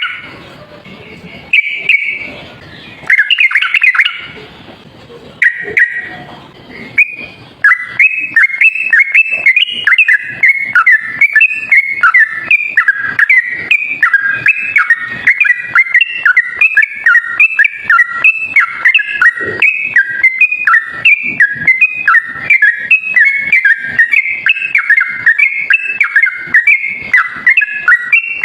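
Yellow-vented bulbul (trucuk) singing: a few separate bubbling whistled phrases, then from about a quarter of the way in a fast, unbroken run of short whistled notes, the continuous 'ropel' song used as a bird-trapping lure call.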